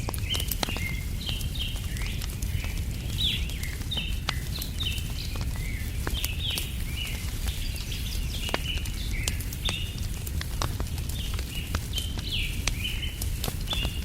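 Wood fire crackling with scattered sharp pops, under a busy chatter of small birds chirping continuously, over a steady low rumble.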